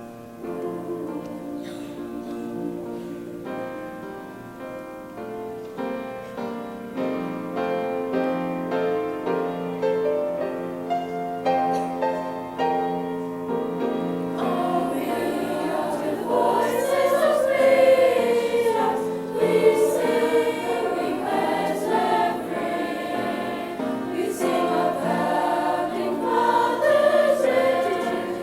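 A school choir singing with instrumental accompaniment. The accompaniment plays alone at first, and the voices come in about halfway through.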